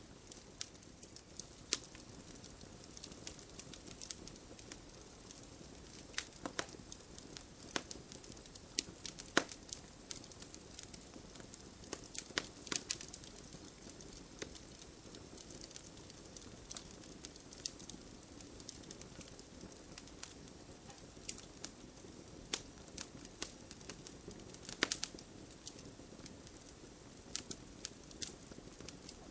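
Fireplace fire crackling, with irregular sharp pops and snaps over a soft steady rush of flame.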